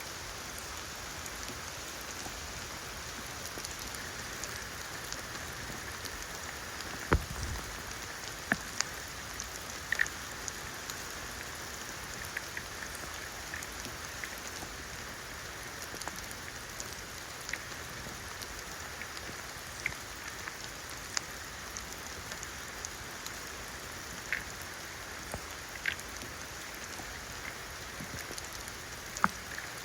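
Rain falling steadily, with many scattered louder drops ticking close by and one heavier knock about seven seconds in.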